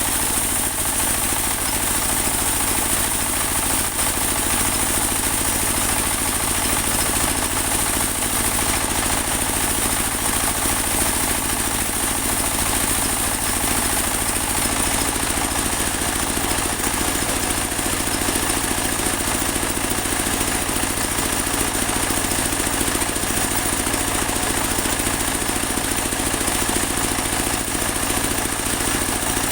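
Engine-driven mobile band sawmill running steadily while sawing a large teak log, its engine and blade making one constant, unbroken machine noise.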